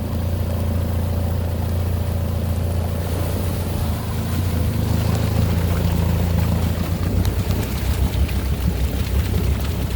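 Mahindra Roxor's 2.5-litre turbodiesel engine running with the vehicle wading in deep floodwater, a steady low hum; about seven seconds in the low sound turns choppy and uneven.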